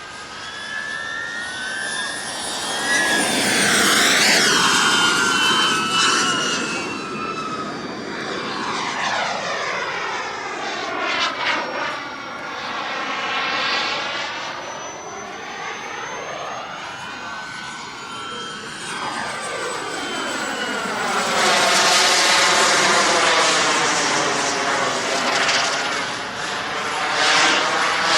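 RC model jet's small turbine engine whining and rushing as the plane makes fly-bys. The high whine drops sharply in pitch as it passes about four seconds in, and the sound swells again in a louder pass around twenty-two seconds.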